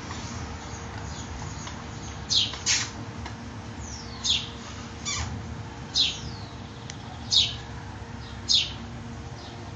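A small bird calling with short, high chirps that each sweep downward, about seven of them roughly a second apart, over a steady hum.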